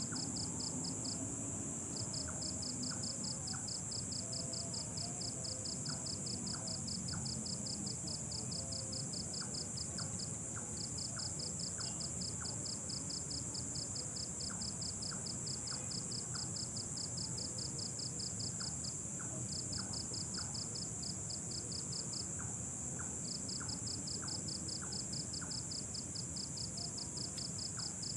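Night insects calling: a steady high-pitched drone with a fast pulsing cricket trill over it, about eight pulses a second, in long runs broken by brief pauses, along with faint regular ticks.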